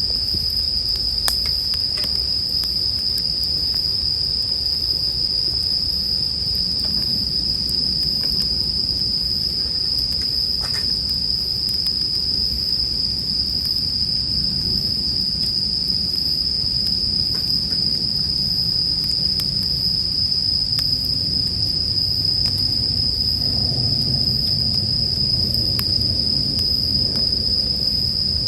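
Bell crickets (suzumushi) singing in a steady, unbroken high chorus, over the low rumble and scattered small crackles of a campfire.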